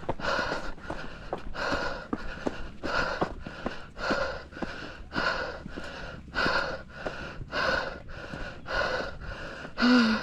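A runner breathing hard and rhythmically, a loud breath about every half-second to second from the effort of a steep uphill trail run, with footsteps on the dirt trail between breaths. Near the end a short voiced gasp.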